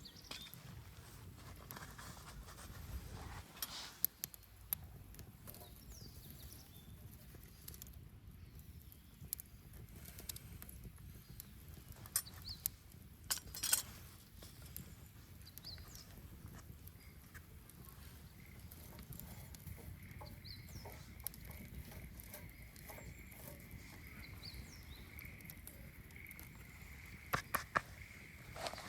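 Wood bonfire burning: scattered crackles and sharp pops over a low steady rumble of the flames. A faint steady high whistle joins about two-thirds of the way through.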